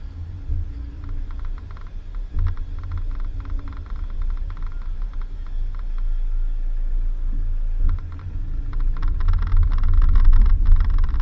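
Vehicle driving on a dirt road: a steady low rumble, with bursts of rattling clicks that come and go and grow louder near the end.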